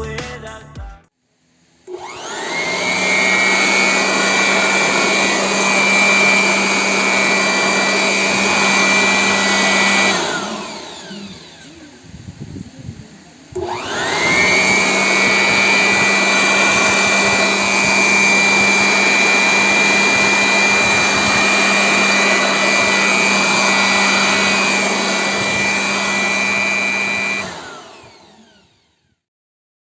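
1200 W electric blower-vacuum switched on, its motor spinning up to a steady high whine. It runs for about eight seconds and then coasts down. It is switched on again a few seconds later, runs about fourteen seconds, and winds down near the end.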